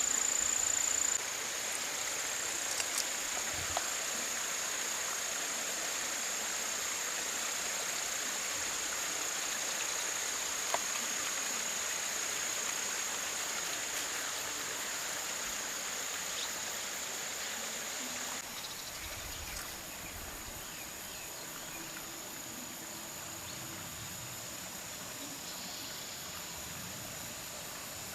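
Insects droning steadily at a high pitch over a faint outdoor hiss, with a few faint ticks; the whole sound drops a little in level about 18 seconds in.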